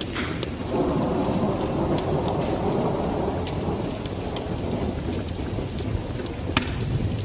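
Steady rain with a roll of thunder that swells about a second in and fades over a few seconds, with sharp pops and crackles scattered throughout, typical of a wood fire.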